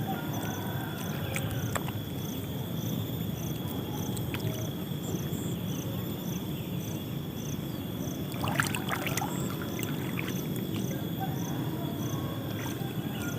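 Steady low rush of water and wind around a wading angler, with an insect chirping about twice a second and a few light splashes or clicks near the middle.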